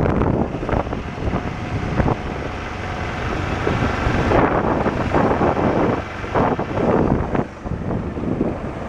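BMW motorcycle riding along, its engine and road noise under heavy wind buffeting on the microphone that comes in uneven gusts.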